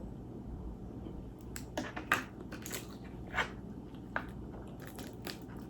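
Crunching and chewing of crispy fried dried fish (daing na bisugo) close to the microphone, with several short, sharp crunches from about a second and a half in.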